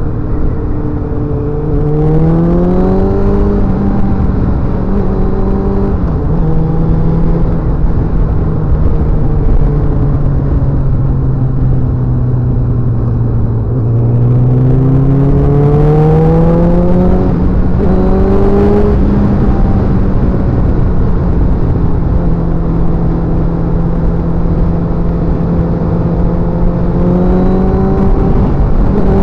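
A single motorcycle engine heard close up while riding. Its pitch climbs under acceleration about two seconds in and again from about fourteen seconds, drops sharply at gear changes, and eases down or holds steady in between, over a constant rushing noise.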